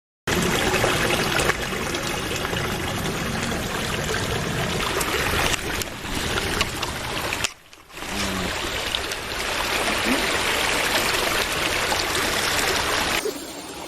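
Creek water flowing and trickling, a steady rushing hiss that briefly dips about halfway through and then resumes.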